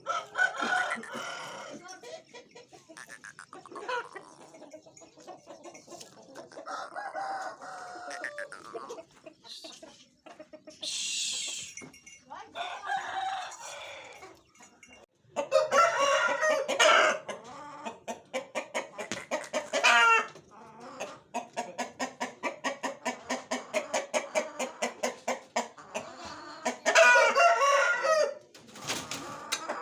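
Aseel chickens clucking, with a rooster crowing loudly about halfway through and again near the end.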